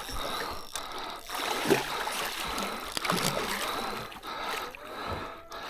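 River water lapping and lightly splashing against the side of a boat, with a couple of brief, low voice sounds.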